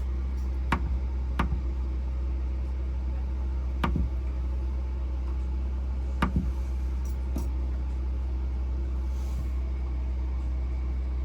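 RV rooftop air conditioner running with a steady low hum. A few sharp clicks or knocks sound over it, about a second in, near four seconds and near six seconds.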